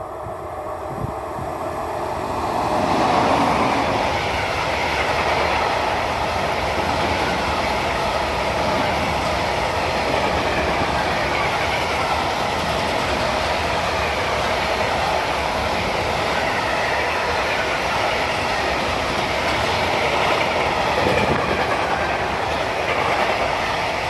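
A train passing close by on the track: it grows louder over the first few seconds, then holds a steady, loud rolling noise of wheels on rails as the cars go past.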